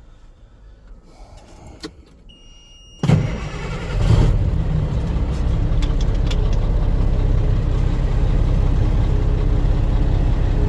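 Dump truck's diesel engine cranking and catching about three seconds in, then running steadily at idle with a deep rumble. Just before it starts there is a short electronic beep.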